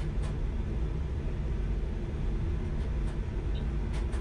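Chinese high-speed bullet train running at speed, heard from inside: a steady low rumble with a few faint clicks.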